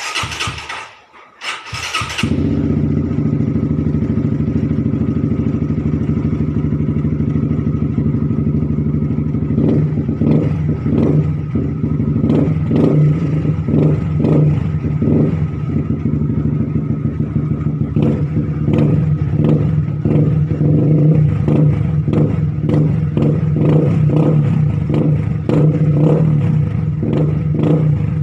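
Motorcycle engine breathing through an aftermarket stainless-steel silencer. It starts about two seconds in and then runs steadily. From about ten seconds in, a run of short, sharp blips rides over the running note.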